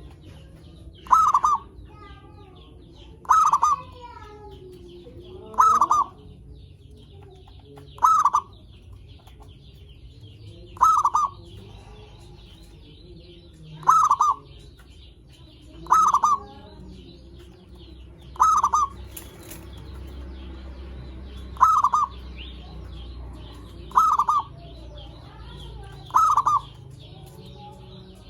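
Zebra dove (perkutut) cooing: a short, loud rolling coo repeated eleven times, about every two to three seconds. Faint chirps of other birds sound in the background.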